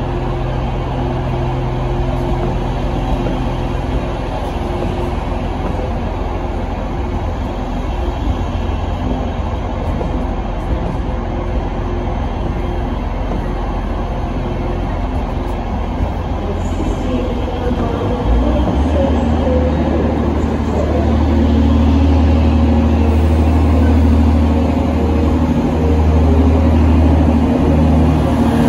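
Northern Class 323 electric multiple unit pulling slowly into the platform, its traction equipment humming with steady tones and its wheels running over the rails. About two-thirds of the way in, a deep steady rumble from a second train on the next track sets in and grows louder.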